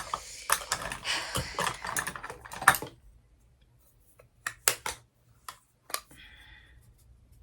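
Makeup products being handled: a dense run of rustling and clicking in the first three seconds, then a few separate sharp clicks.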